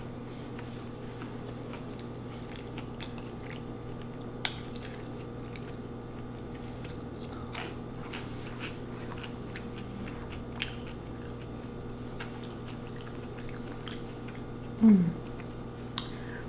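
Close-miked chewing and mouth sounds from eating lo mein noodles: scattered soft smacks and clicks over a steady low electrical hum, with a brief falling 'mm' sound about fifteen seconds in.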